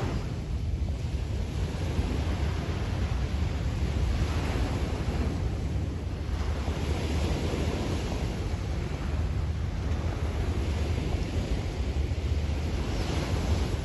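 Sea waves washing onto the beach, the hiss of the surf swelling every few seconds. Wind rumbles on the microphone underneath.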